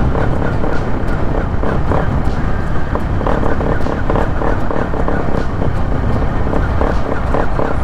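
Bajaj Pulsar NS200 single-cylinder engine with an Akrapovic full-system exhaust, stuttering and misfiring under held throttle as the fuel tank runs dry, over road and wind noise.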